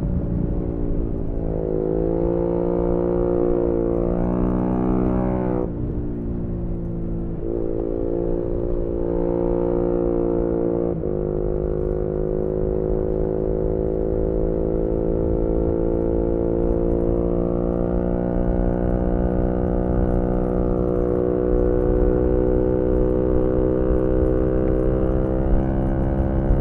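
Yamaha MT-125's single-cylinder four-stroke engine through a GPR aftermarket exhaust, pulling hard under acceleration: the pitch climbs, drops sharply at a gear change about five seconds in and again about eleven seconds in, then holds steady and creeps upward, stepping higher about two-thirds of the way through.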